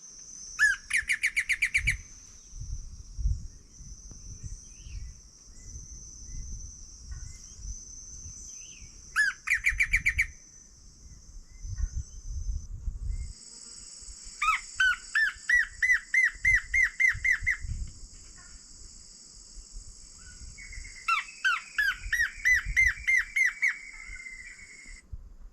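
Blackish antbird song played back loudly through a phone speaker from the Merlin app: four bouts of quick, evenly repeated whistled notes, the first rising and speeding up as an ascending tremolo.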